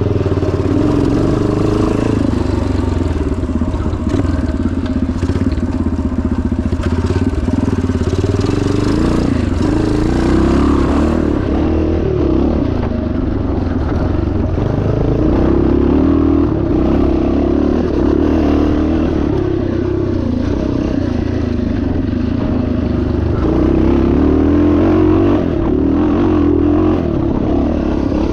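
A 1977 Yamaha TT500's single-cylinder four-stroke engine running hard, its revs rising and falling again and again with the throttle.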